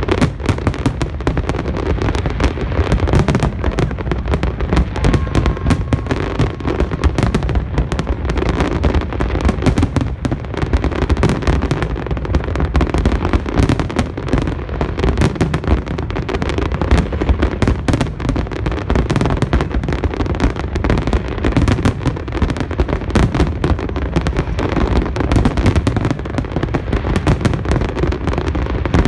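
Fireworks display: a dense, continuous barrage of aerial shells bursting, many bangs overlapping with no pause.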